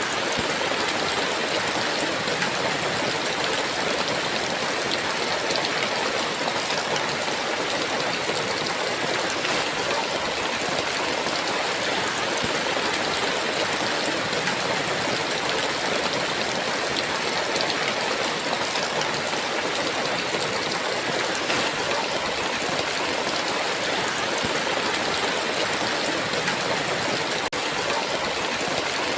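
Heavy rain falling steadily, a dense, even hiss of a downpour with no thunder.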